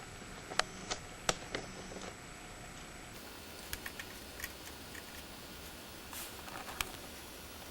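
Scattered light clicks and taps of laptop parts being handled during disassembly, a few at a time, over a steady hiss.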